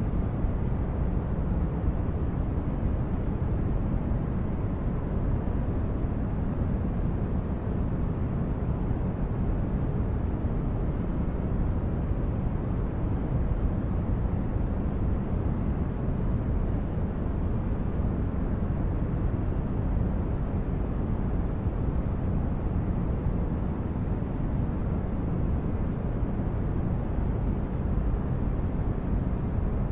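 Sci-fi spaceship interior ambience: a steady low rumble of brown-noise-like engine drone, heavy in the bass and thin in the treble, without change or distinct events.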